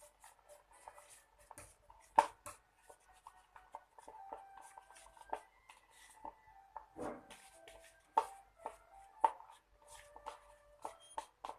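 A stirrer scraping and tapping around a container as clear glue and water are mixed for slime, giving irregular clicks and faint squeaks, with a sharper knock about two seconds in.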